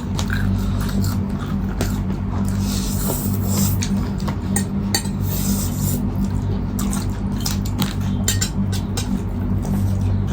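Cutlery and plates clinking in scattered short clicks during a meal, over a steady low hum.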